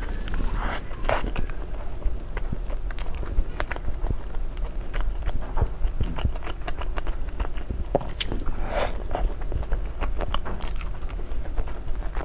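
A person biting and chewing food, with many irregular crunchy clicks and crackles.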